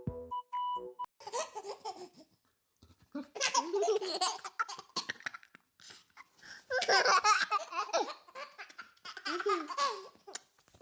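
A baby laughing in four separate bouts with short pauses between them, after a few notes of music at the start.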